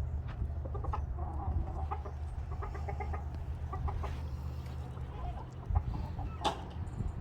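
Chickens clucking, a run of short clucks over the first half, with a sharp click about six and a half seconds in and a steady low rumble underneath.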